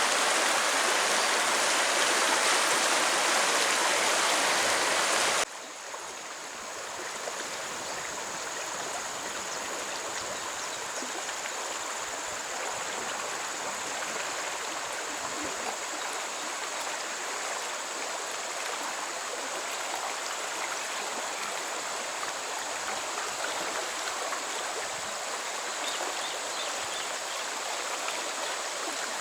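Steady rushing of a stream's running water. About five seconds in it cuts abruptly to a quieter stretch of flowing water with a thin, steady high tone running over it.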